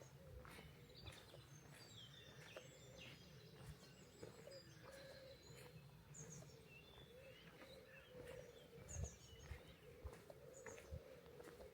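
Faint birdsong: several small birds chirping and twittering, with soft footsteps and a low rumble underneath.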